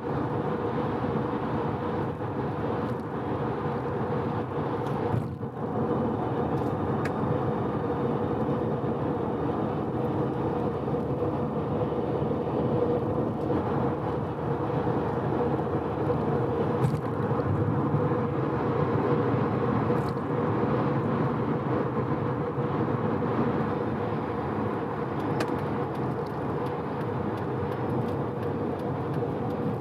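Mazda FD3S RX-7's twin-rotor 13B-REW rotary engine holding a steady highway cruise, a constant drone over tyre and road noise. The engine is freshly rebuilt after a blow-up and is being run in gently.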